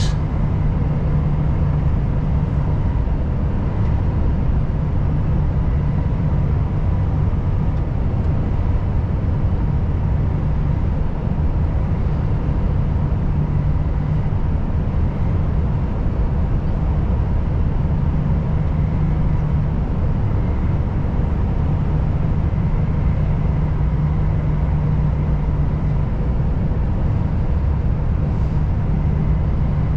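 Volvo FH540 truck's 13-litre straight-six diesel running steadily on the road: a constant low drone over tyre and road noise.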